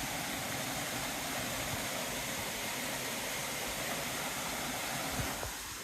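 Steady rushing of a creek's small waterfall, an even hiss of falling water.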